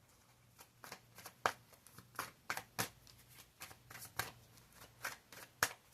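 A deck of tarot cards being shuffled: a run of quick, irregular card slaps and flicks that starts about half a second in.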